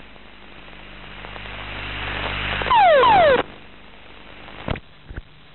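Aircraft ejection sequence: a rushing noise builds for about two and a half seconds, then a loud burst with two falling whistles, then two sharp cracks about half a second apart near the end.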